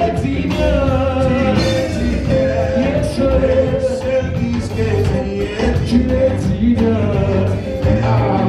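Live worship band playing, with voices singing held notes over bass and a steady drum beat.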